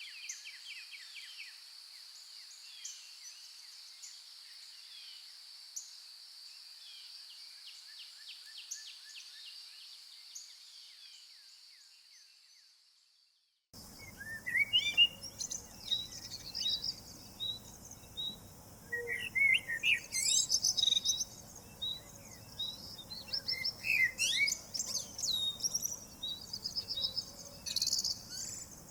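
Several songbirds chirping in a dawn forest. For the first half this sits over a steady high insect drone that fades away. After a brief gap about halfway, a livelier bird chorus takes over, with one bird repeating a short note about twice a second over the soft hiss of a creek.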